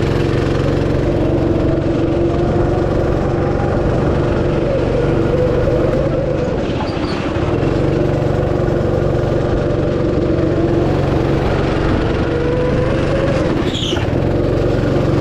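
Go-kart engine running under way, its pitch rising and falling as the kart speeds up and slows through the track, with a brief high squeal near the end.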